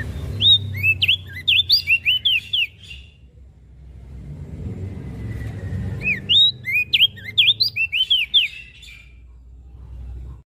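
Crested white-eye (opior jambul) singing two rapid phrases of sharp sweeping chirps, each phrase about two and a half seconds long, over a low background rumble.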